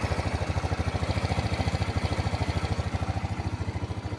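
Rusi Passion scooter engine idling steadily with an even run of firing pulses, holding its idle without throttle now that a D-type carburetor is fitted and tuned: the hard-starting, stalling fault is cured.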